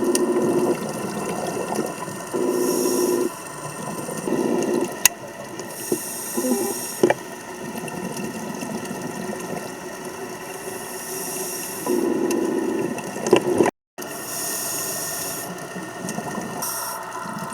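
Scuba regulator breathing underwater: bursts of exhaled bubbles about a second long come every few seconds over a steady hiss, with a few sharp clicks. The sound drops out for a moment about three-quarters of the way through.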